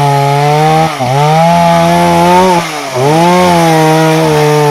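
Two-stroke chainsaw running at high speed while cutting firewood. The engine note drops briefly twice as it bogs under load and recovers each time.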